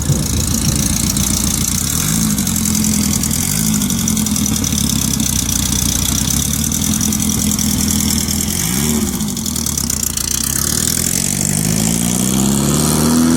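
Car engine running, its pitch dipping briefly partway through, then climbing steadily near the end as it is revved or accelerates.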